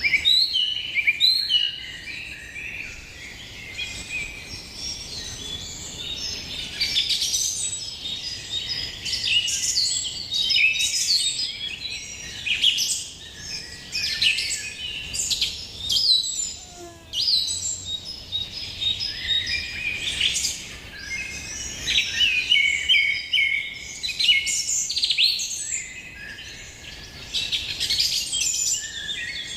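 Many birds chirping and singing at once, their short high calls overlapping.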